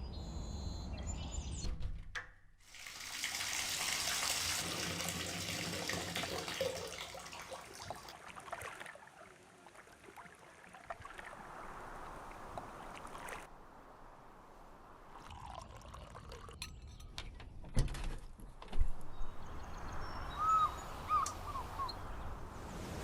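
Water running for several seconds, followed after a few cuts by quieter ambience, a couple of sharp knocks, and then short chirping bird calls near the end.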